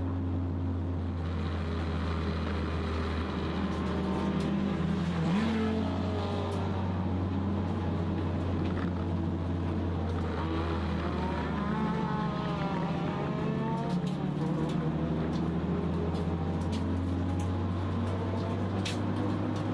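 Toyota Starlet Glanza EP91 race car's four-cylinder engine at racing speed, heard from inside the cabin as a steady low drone, its pitch rising and falling as the driver works through the gears and corners.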